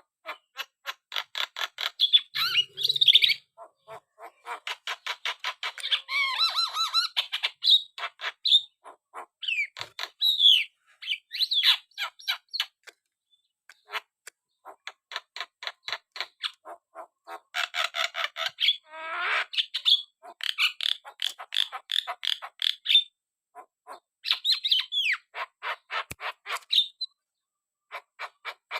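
Javan myna (jalak kebo) singing in long bouts: fast rattling runs of clicks, several a second, mixed with squawks and short whistled glides, broken by brief pauses.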